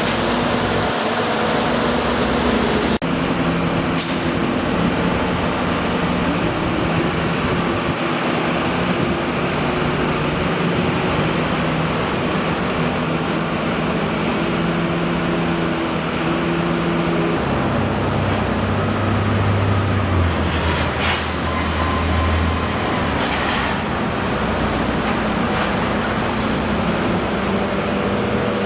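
A large engine running steadily under a constant noisy wash, its note dropping lower about two-thirds of the way through.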